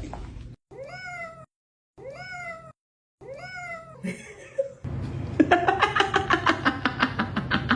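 A cat meowing three times, the same short rising-then-falling meow each time, with silence between. Then comes a longer sound that falls slowly in pitch and is chopped into rapid pulses, about six a second.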